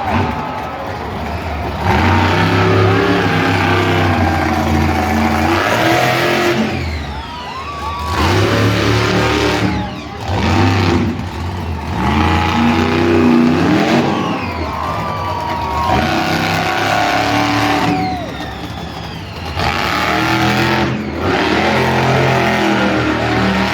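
Monster truck engine revving hard in repeated surges, its pitch climbing and dropping with the throttle, with short easings between runs.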